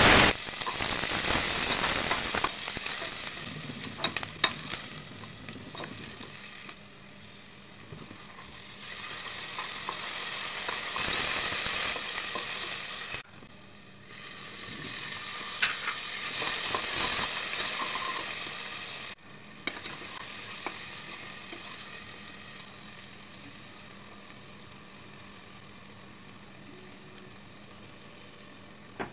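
Sliced onions sizzling as they hit hot oil in a metal pot and fry, with the odd knock of a wooden spatula stirring. Chopped tomatoes tipped in about halfway bring a fresh surge of sizzling, which settles to a quieter fry near the end.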